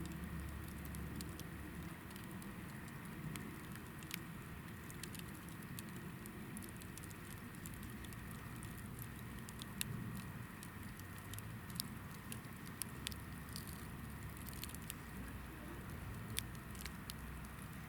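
Hinoki (Japanese cypress) firewood burning in a campfire, with scattered sharp pops and crackles over a low steady rumble.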